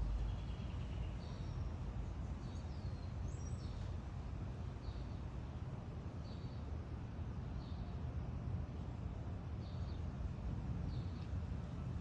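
Small birds chirping: short high calls repeating about once a second, with a brief trill at the start, over a steady low outdoor rumble.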